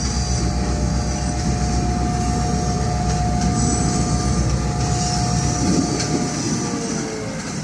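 Passenger excursion train running along the line: a steady heavy rumble with thin high-pitched wheel squeal over it, the rumble falling away near the end.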